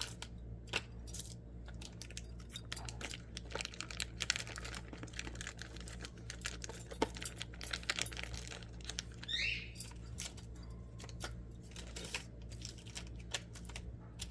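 Small plastic condiment packets being handled and sorted into a storage box: crinkling with many light clicks and taps.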